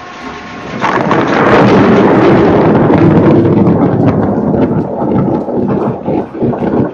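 Loud thunder from a nearby lightning strike, crashing in about a second in and rolling on for several seconds before breaking up into uneven rumbles.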